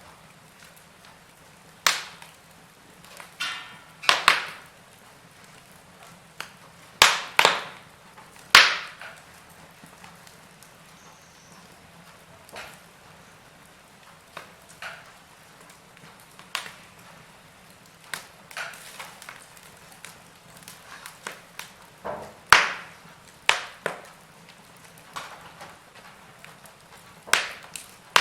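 Wood fire crackling in a fireplace: irregular sharp pops and snaps of burning logs, a few louder ones among many small ones, over a faint steady hiss.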